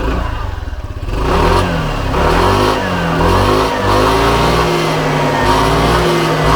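Hero Xoom 160 scooter's 160cc single-cylinder engine running through its exhaust: idling at first, then from about a second in revved in several quick throttle blips that rise and fall, before being held at steadier, higher revs.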